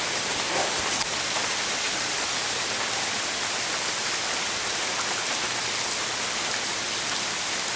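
Heavy hurricane rain pouring steadily: a dense, even hiss with no let-up.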